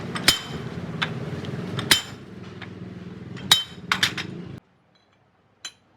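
Metal tools and parts striking each other in sharp, ringing clinks, about five irregularly spaced strikes with a cluster of three near the middle. They sound over a steady low hum that cuts off suddenly about four and a half seconds in.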